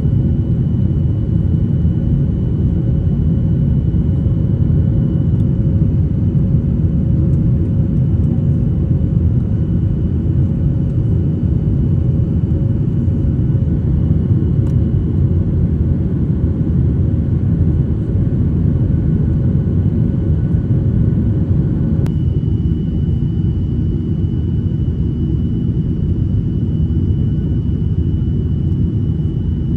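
Cabin noise inside a Boeing 737-800 in flight: the steady rumble of its CFM56 turbofan engines and the airflow, with a faint hum and a high whine over it. About two-thirds of the way through the hum stops and the high whine grows stronger.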